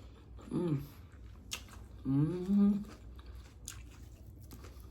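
A woman chewing a mouthful of salad close to the microphone, with wet mouth clicks and two hummed 'mm' sounds of enjoyment: a short falling one, then a longer one that rises and holds.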